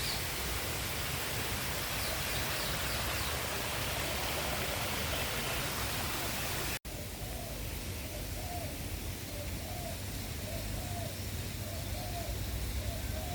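Steady rushing background noise with faint bird chirps over it. The sound drops out for an instant about seven seconds in.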